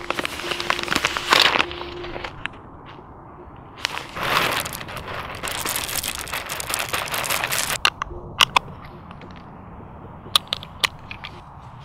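Coffee beans being ground in a coffee grinder: crunchy crackling in a short stretch at the start and a longer one in the middle, followed by a few separate sharp clicks.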